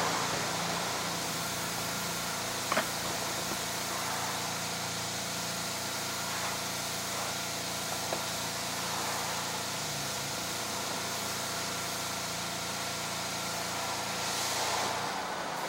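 A small gasoline engine running steadily, with one sharp click about three seconds in.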